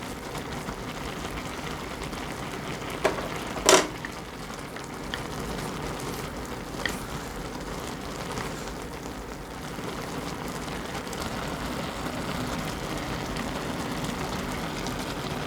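Instant noodles cooking in a pot on the stove with a steady hiss of simmering liquid. A utensil knocks sharply against the pot twice about three to four seconds in, with a few lighter clinks later.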